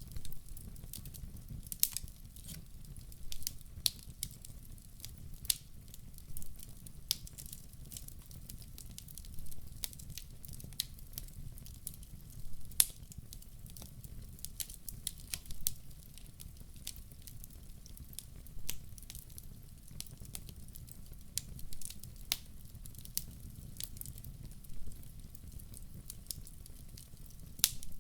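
Wood fire burning, crackling with irregular sharp pops and snaps, a few of them louder, over a steady low rumble.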